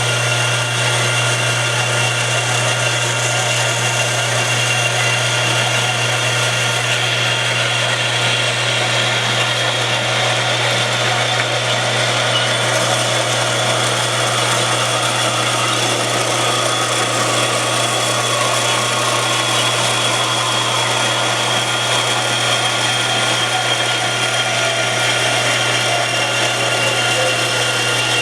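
Metal-cutting power saw running steadily as its blade cuts through a section of steel pipe: an even hum with a thin, steady whine above it.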